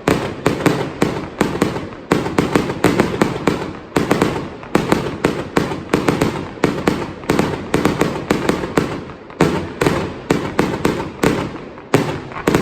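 Rapid, continuous barrage of firework bangs, several a second, from aerial shells bursting overhead, with a few brief lulls between volleys.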